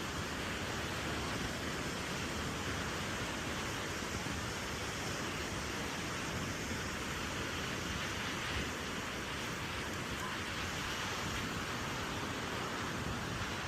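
Steady wash of ocean surf with wind, an even noise with no distinct events.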